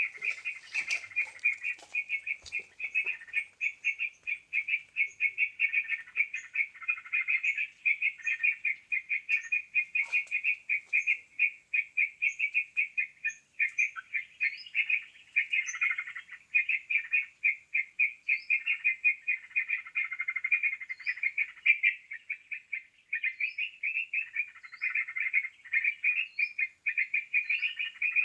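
Bird-lure recording of yellow-vented bulbul (trucukan) calls: a dense, unbroken stream of rapid chattering notes, with thin short high chirps scattered over the top.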